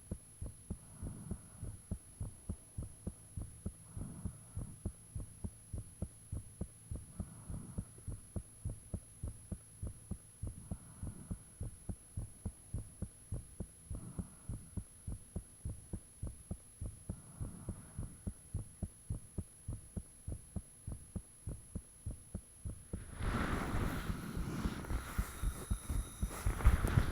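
A person's own heartbeat, recorded close up: steady, regular low thumps with a soft hiss coming back every few seconds. About 23 seconds in, a louder scratchy noise joins and the beats grow stronger.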